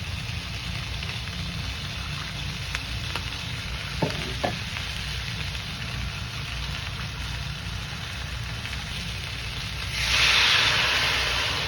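Chicken drumettes sizzling in a hot pan, a steady hiss, with two light utensil taps about four seconds in. Near the end the sizzle suddenly swells much louder, then slowly dies down.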